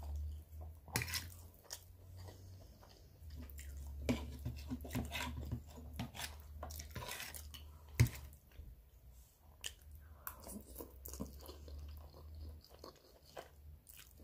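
Close-up chewing of spaghetti and toasted bread, with soft crunches from the bread and scattered small clicks; the loudest is a sharp tap about eight seconds in.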